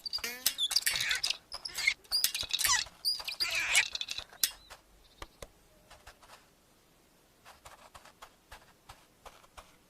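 Cartoon sound effects: a busy flurry of squeaks and scurrying patter with a short falling squeak, dying away after about four seconds to a few faint ticks.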